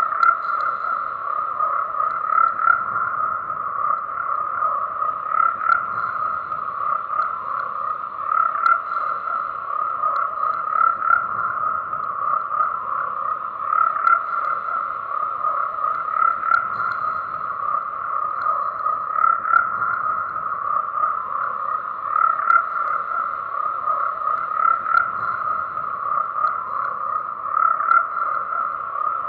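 Dense chorus of frogs croaking continuously, with louder calls swelling out of it every two to three seconds.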